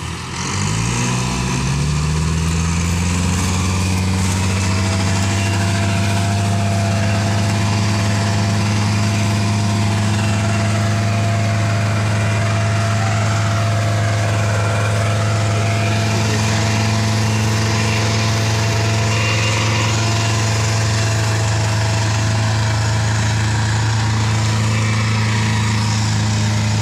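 Massey Ferguson 375 tractor's diesel engine revving up over the first couple of seconds, then running steadily at high revs, as when hauling a heavily loaded sugarcane trolley.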